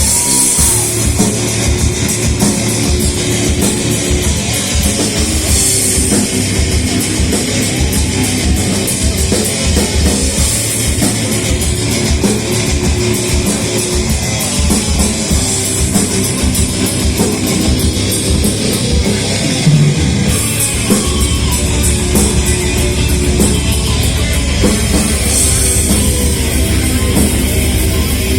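A heavy metal band playing live: distorted electric guitars over drums with dense, fast kick-drum hits. About three-quarters of the way through, the low end settles into a steady, held rumble.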